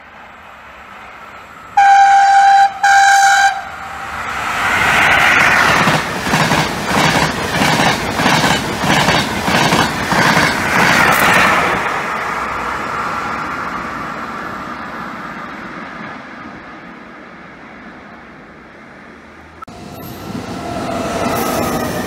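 Trenitalia Intercity train sounding two short horn blasts, then running through the station at speed, its wheels clicking over the rail joints about twice a second as the coaches pass, fading away as it goes. Near the end a second train is heard at the platform, with a steady squeal.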